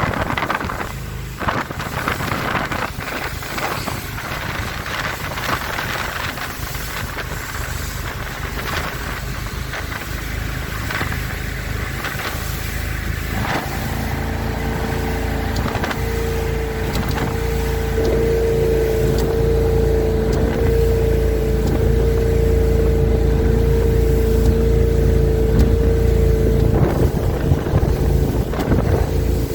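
Four Winns Liberator powerboat under way, wind and water rushing past. About halfway through, a steady engine note with a deep rumble comes in and grows louder as the boat runs at speed.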